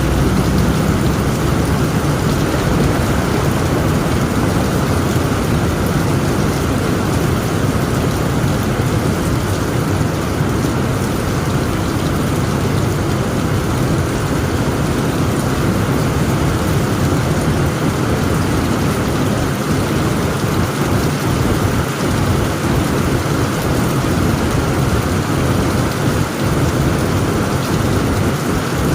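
Heavy rain drumming steadily on a tent roof, with a constant low rumble of thunder underneath and no separate sharp cracks.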